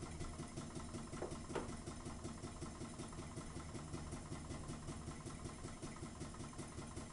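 Small homemade Ringbom free-piston Stirling hot-air engine running steadily under load while driving a generator, a quiet, even, rhythmic pumping.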